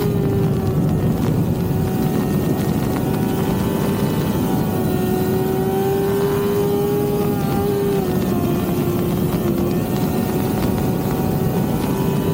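Yamaha R6 inline-four sport bike engine running under way at a steady, high pitch, holding nearly constant revs with small dips in pitch about seven and a half and nine and a half seconds in.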